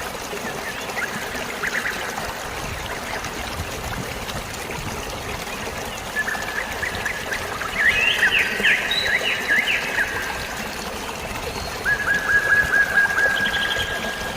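Steady trickling, flowing water with birds chirping over it: a few chirps about a second in, a busy run of rapid chirps from about the middle, and a quick trill of repeated notes near the end.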